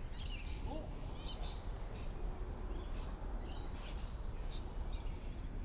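Small birds chirping, with short high calls scattered every half second or so, over a steady low background rumble.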